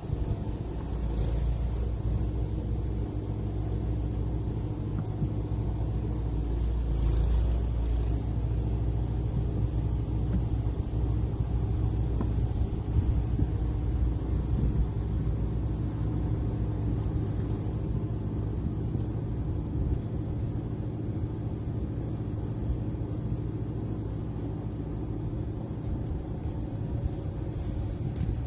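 An engine running steadily at a constant speed, a continuous low hum with a few faint high ticks.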